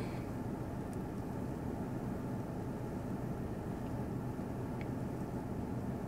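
Steady low hum of a car's engine idling, heard from inside the cabin, with a couple of faint ticks.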